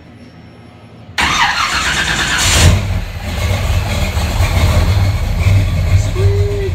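Fuel-injected V8 in a 1955 Chevy truck starting: the starter cranks suddenly about a second in, the engine fires and flares up, then settles into steady running with a strong low rumble. This is its first start after new rocker studs and a valve adjustment.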